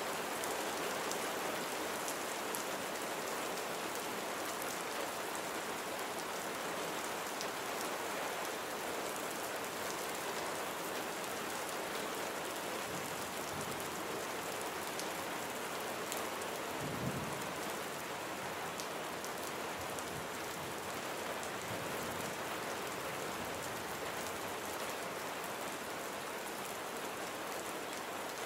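Steady rain falling and pattering on surfaces. About two-thirds of the way through there is a brief low thump.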